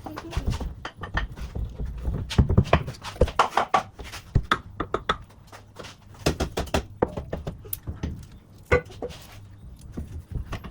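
Irregular knocks, clicks and clunks of hand work on metal driveshaft parts.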